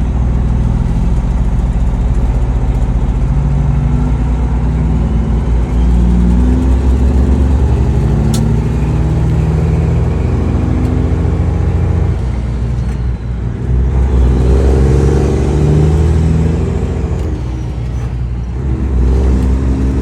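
Semi truck's diesel engine and road noise heard inside the cab while driving, the engine note dropping and picking up again about two-thirds of the way through, as with a gear change or slowing down.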